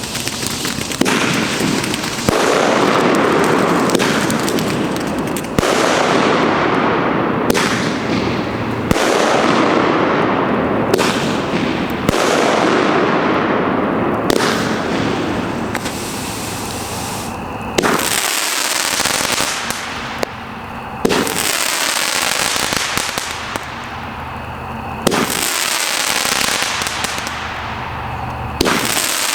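Aerial fireworks going off one after another, about a dozen in all and every couple of seconds: each a sudden sharp report followed by a second or two of hissing noise that fades.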